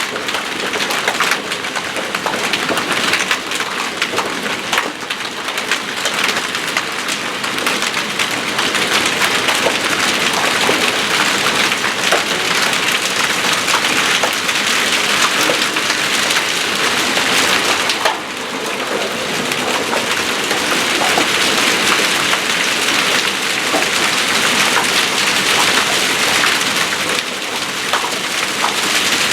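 Hail, golf-ball sized at its largest, and heavy rain pounding down in a dense, continuous clatter of many separate impacts. It eases for a moment about two thirds of the way through.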